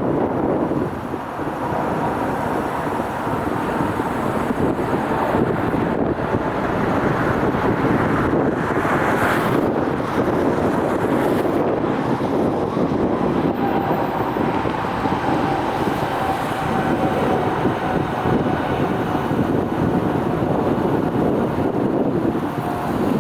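Steady rush of wind on the microphone over the drone of jet aircraft engines, with a faint engine whine that slowly falls in pitch over the second half.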